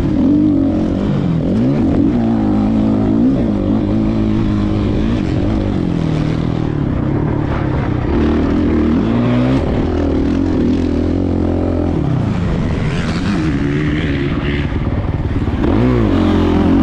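Motocross bike engine revving hard on a dirt track, its pitch climbing and dropping again and again as the throttle is opened and shut.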